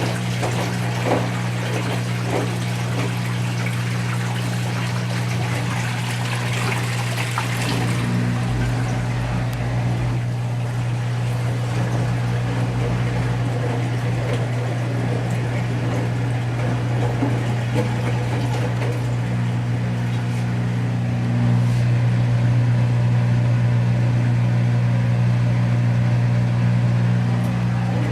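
Whirlpool Duet Sport front-load washer in its rinse cycle: water splashing into the drum for the first several seconds, then stopping, over a steady machine hum that gets louder about 21 seconds in.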